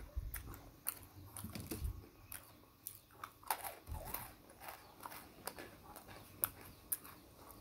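A person chewing crunchy peanut cookies (peanut kisses) close to the microphone: sharp crisp crunches and clicks at irregular intervals, busiest about halfway through.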